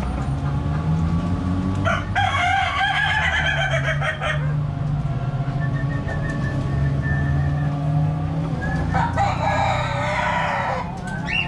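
A rooster crowing twice, each crow about two seconds long, over a steady low hum.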